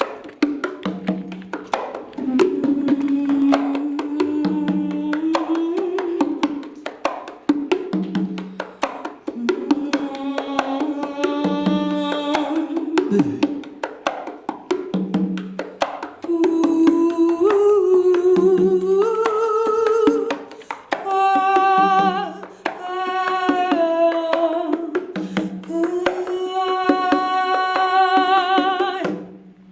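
Live pandeiro ensemble music. The frame drums keep up a dense rhythm of jingle strikes over a low beat about once a second. A sustained, wavering melody without words runs above it and climbs higher in the second half.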